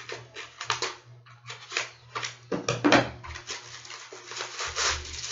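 Packaging and small accessories being handled and opened: rapid, irregular crinkling and rustling, with a louder knock about two and a half seconds in.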